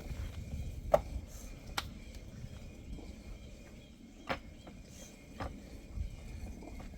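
A few sharp, irregular knocks over a low rumble, the loudest about a second in.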